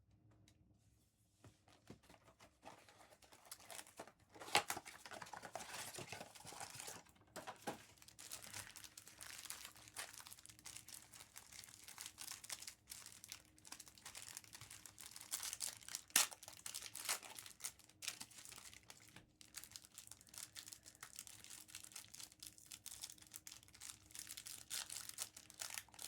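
Trading-card packs being torn open, their foil wrappers crinkling and crackling continuously, with a few sharper rips about four and sixteen seconds in.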